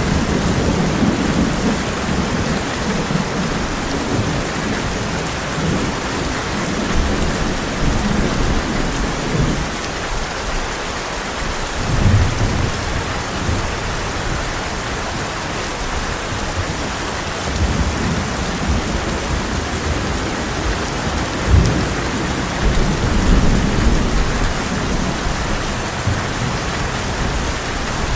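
Heavy rain drumming steadily on a tin roof, with rolling thunder rumbling low underneath in waves and two sharper thunder cracks, about twelve seconds in and near twenty-one seconds in.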